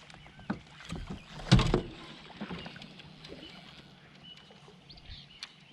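Handling noises aboard a kayak: a few knocks and thumps against the hull, the loudest about a second and a half in, while a freshly caught fish is dealt with.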